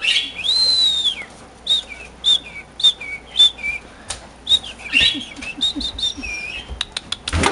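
Male cockatiel whistling its song: one long rising-and-falling whistle, then a string of short whistled notes that each drop in pitch, with sharp clicks in between.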